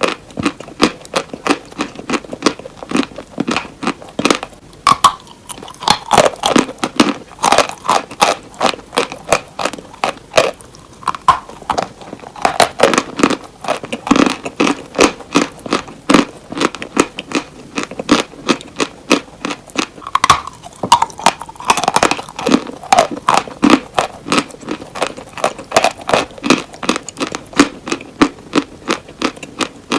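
Close-miked chewing of crunchy hard cheese: a steady run of loud, sharp crunches, about two to three a second, with a few brief pauses between mouthfuls.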